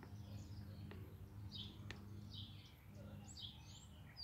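Faint bird chirps in the background: short high calls repeated every second or so, some with a quick upward slide, over a low steady hum.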